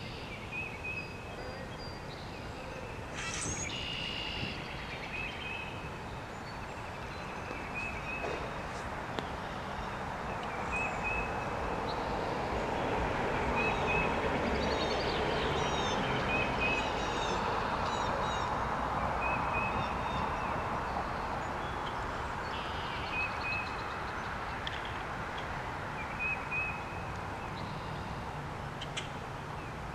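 Small birds calling: one repeats a short chirp about every second and a half, and others twitter briefly in the middle. Under them a rushing background noise swells and fades through the middle.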